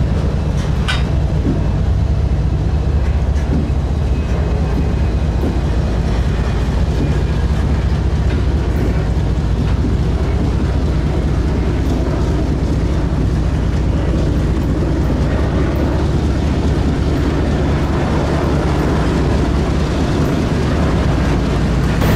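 Union Pacific diesel-electric freight locomotive passing slowly, its engine a steady low drone. Near the end its double-stack container well cars roll by on the rails.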